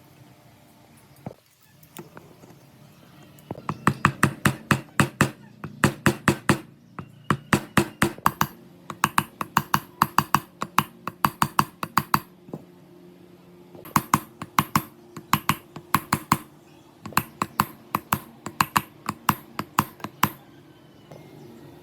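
Bursts of rapid, sharp taps or clicks, about six a second, each run lasting one to two seconds with short pauses between. They start a few seconds in and stop shortly before the end.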